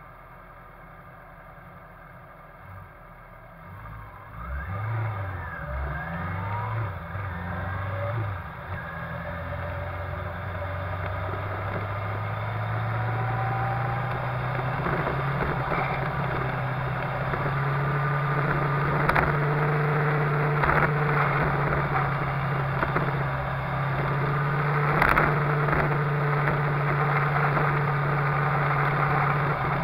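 Suzuki GSX-R750 SRAD's inline-four engine ridden on the road, heard close from a bike-mounted camera: quiet at first, then revving up and down through gear changes about four seconds in, settling into a steady, slowly climbing drone at speed with wind and road noise. A few brief sharp sounds come through in the second half.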